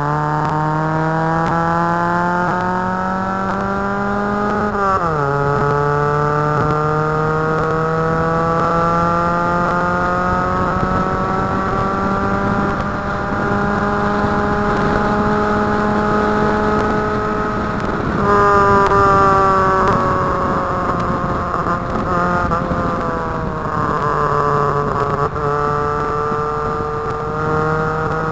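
Nissan 100NX engine pulling through the gears on track. Its pitch climbs steadily, drops sharply at an upshift about five seconds in, then climbs slowly again. It shifts down a little after about eighteen seconds, sags off the throttle, and rises again near the end.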